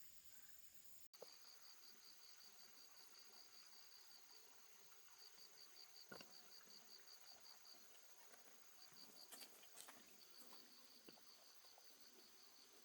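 Faint insects chirping: a rapid, evenly pulsed high chirp repeating in long runs with short breaks, over a steady high-pitched drone, with a few faint knocks.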